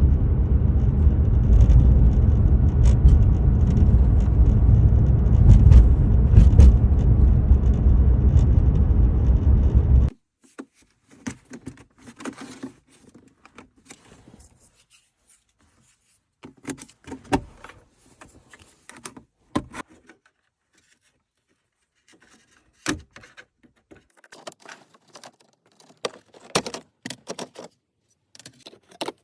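Loud, steady low rumble inside a BMW F87 M2's cabin on the move, with faint clicks that fit the cup holder rattle the car has. About ten seconds in it cuts off, and scattered short clicks, taps and scraping rattles follow.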